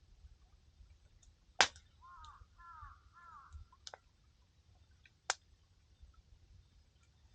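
Campfire firewood crackling, with three sharp pops, the loudest about a second and a half in. Just after it, a crow caws a few times in a quick run.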